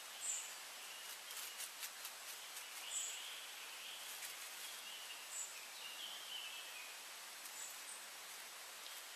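Quiet rural meadow ambience with faint, distant bird calls: a handful of short, very high chirps spread through, and a thin wavering song in the middle, over a steady soft hiss. A patch of soft ticking comes a little over a second in.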